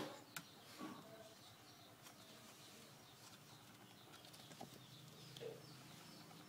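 Near silence: faint room tone with a sharp click at the start and a few lighter clicks within the first second.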